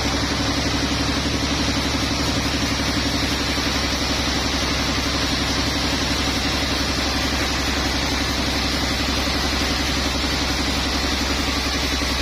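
Sawmill engine running steadily at a constant speed, with an even, pulsing drone.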